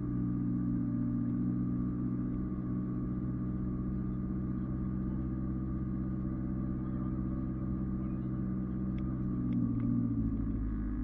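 Off-road 4x4 vehicle's engine running at a steady speed, shifting slightly in pitch near the end.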